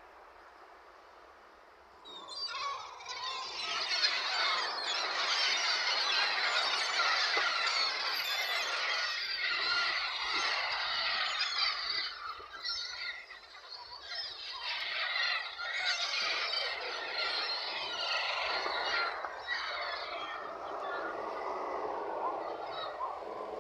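Many birds squealing and cheeping shrilly all at once, their overlapping calls starting suddenly about two seconds in. The racket eases briefly about halfway, then picks up again.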